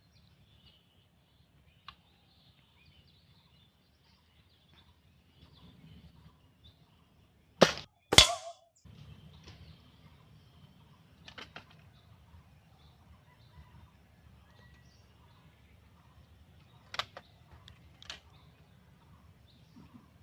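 Airgun firing a pellet: one loud sharp crack about eight seconds in, followed half a second later by a second crack. A few fainter clicks come later.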